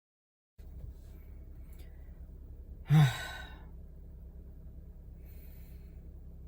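A man sighs once, loudly, about three seconds in, the sigh falling in pitch, over a steady low background hum.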